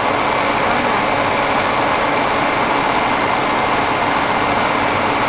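Large truck's engine running steadily at an even pitch.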